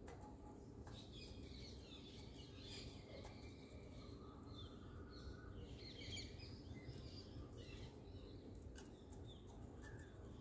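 Faint outdoor ambience: small birds chirping and twittering in the background over a low steady hum, busiest through the first two-thirds, with a few faint ticks near the end.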